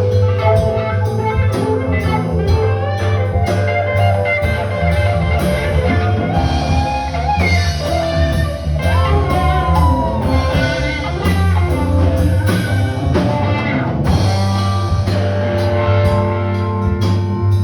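Live band playing an instrumental passage: guitar over a steady drum kit beat and a heavy low end.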